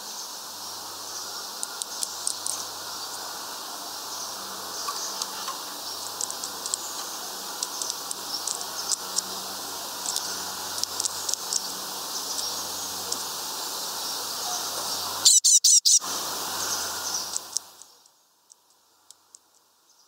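Small birds chirping outdoors: many short high chirps over a steady high hiss, with a brief burst of loud, shrill calls about fifteen seconds in. The sound then fades out to near silence.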